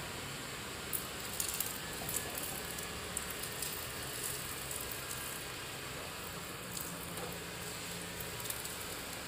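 Suzuki APV van's engine idling quietly, with scattered faint crackles and ticks over a steady hiss.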